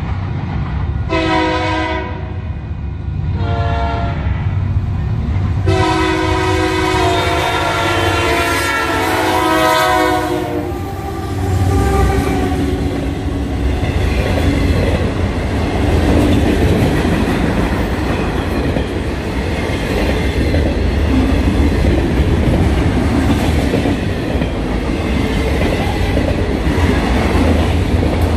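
An EMD SD70ACu diesel locomotive's horn sounds for a grade crossing: a few short blasts, then one long blast lasting about five seconds. The train then passes close by, a steady rumble of the locomotive and of autorack freight cars with their wheels clattering over the rails.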